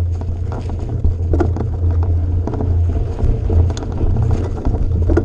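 A vehicle's engine running with a steady low hum, with many short knocks and rattles over it.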